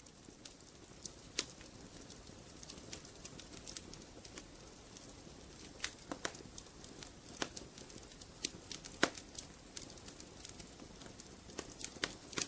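Wood fire crackling in a fireplace: irregular sharp pops and snaps over a soft steady hiss, the loudest pop about nine seconds in.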